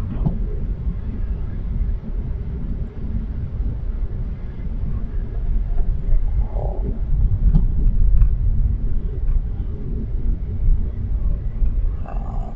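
Car driving on snow-covered roads, heard from inside the cabin: a steady low rumble of engine and tyres, with a few faint knocks.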